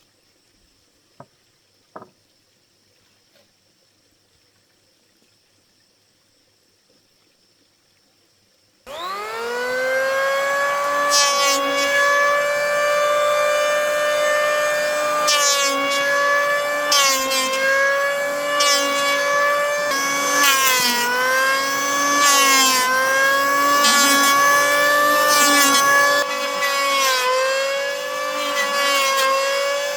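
Electric power saw spinning up about nine seconds in, then running at a steady high whine that dips briefly in pitch again and again as it bites into wood. Before it starts there are only two faint clicks.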